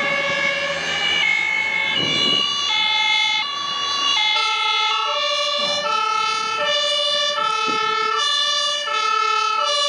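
German fire engine's two-tone siren (Martinshorn) sounding while it drives, a steady high-low alternation of two notes about every half second; a second set of two-tone notes overlaps out of step with the first.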